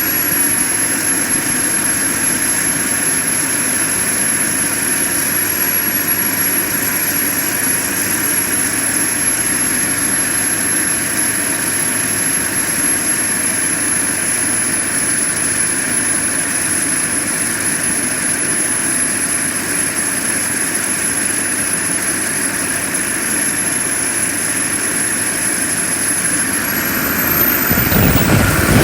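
Model turboprop turbine running steadily with a high-pitched whine and propeller noise. Near the end the whine climbs in pitch and grows louder as the turbine spools up.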